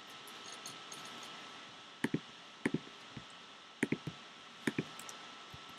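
Computer mouse clicking: six or seven sharp clicks, some in quick pairs like double-clicks, over a steady faint hiss.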